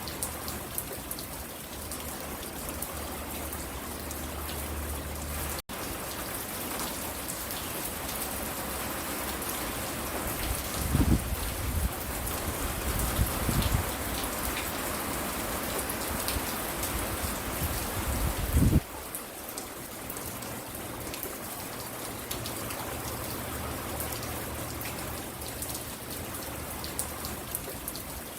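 Steady rain falling and pattering on surfaces, a continuous even hiss. About halfway through come a few loud low rumbles, the last one cutting off suddenly, and there is a split-second dropout near the start.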